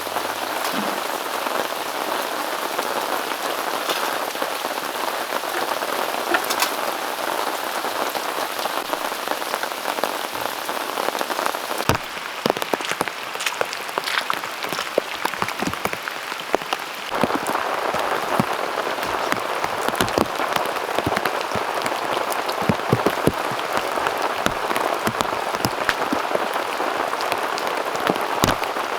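Heavy rain pouring down steadily, with many sharp individual drops striking close by. The sound of the downpour shifts abruptly about twelve seconds in and again around seventeen seconds.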